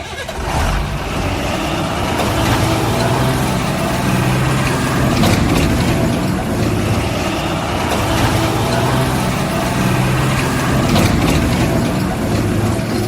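A heavy vehicle engine running steadily, with a low, slightly wavering hum.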